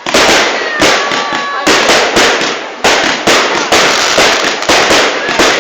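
Fireworks going off in quick succession: about a dozen sharp bangs, roughly two a second, each trailing off before the next. A faint whistle runs for about a second, starting about a second in.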